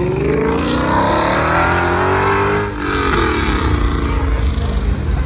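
Car engine revving hard as the car accelerates. Its pitch climbs, drops sharply about two and a half seconds in at a gear change, then climbs again.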